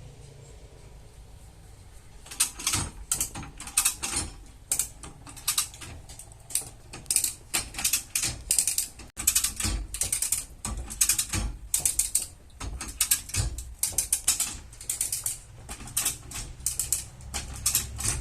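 Irregular series of sharp metallic clicks and taps from body-repair tools working on car bodywork, about two or three a second, starting about two seconds in over a low hum.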